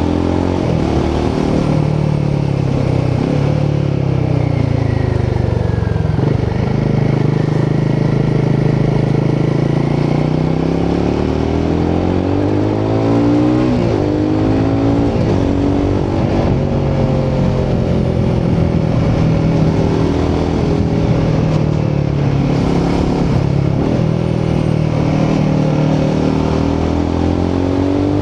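Royal Enfield Himalayan 450's 452cc single-cylinder Sherpa engine and exhaust under way, heard from the rider's position. The revs rise and fall several times as the bike speeds up and slows.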